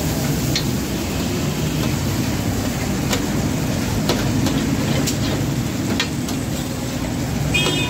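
Beef liver and tomato pieces sizzling in oil on a large flat iron griddle: a steady frying hiss with a few sharp clicks, over a low background rumble.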